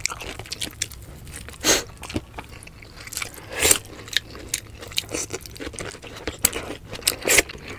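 Close-miked eating sounds of two people eating grilled fish, rice and vegetables with their hands: wet chewing, lip smacks and small crunches. There are two louder bursts, about two and four seconds in.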